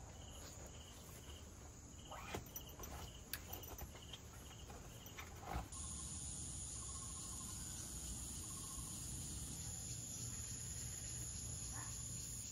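Insect chirping outdoors, a regular high chirp about twice a second, with a few soft knocks. About halfway through, the chirping stops abruptly and only a faint steady background noise remains.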